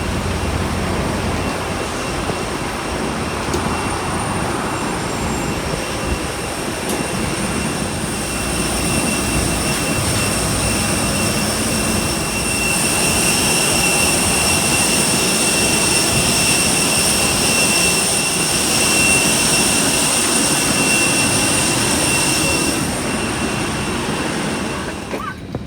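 Steady jet-aircraft noise: a loud rumble with a high whine that grows louder midway, then cuts off suddenly near the end.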